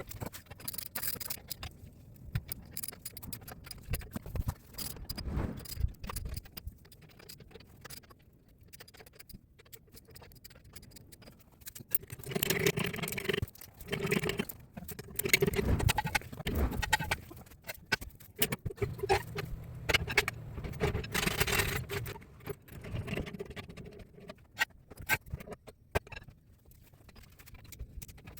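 Metal clinks, clatter and scraping from wheels and lug nuts being handled and fitted back onto the hubs. A louder, busier stretch in the middle carries an on-and-off hum.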